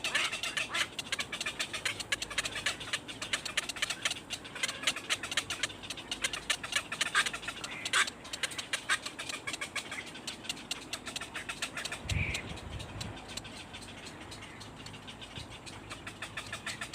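Rapid, overlapping chirping of many small birds, busiest in the first half and thinning later, with a brief low thump about twelve seconds in.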